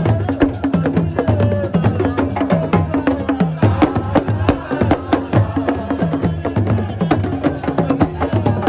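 Fast traditional drumming, many drums struck in a quick dense rhythm with ringing low tones, with voices over it.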